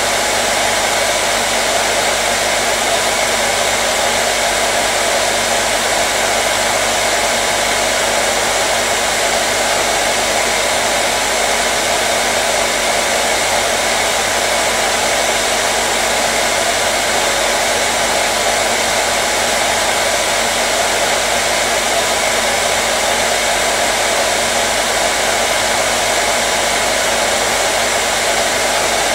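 Hair dryer running steadily: a constant blowing whoosh with a faint steady motor hum, unchanging in level.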